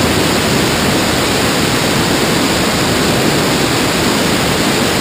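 Loud steady rush of wind over a camera mounted outside on the wing of a Cessna 172 in flight, with the engine noise buried in it. It starts and stops abruptly.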